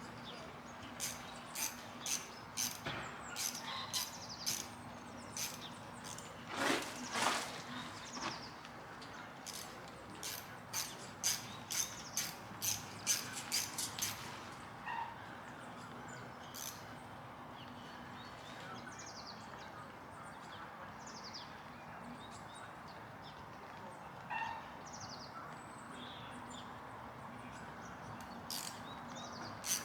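A run of sharp clicks and taps from hand tools, as the Allen bolt that retains the stern gear is tightened. Short high bird chirps sound in the background, and a faint steady hum runs underneath.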